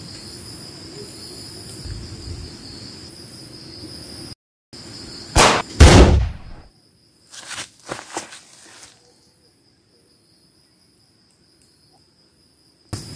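Steady drone of insects with a high thin tone, cutting out about four seconds in. About five and a half seconds in comes a loud gunshot sound effect, a sniper rifle firing, with a few fainter sharp cracks following around two seconds later.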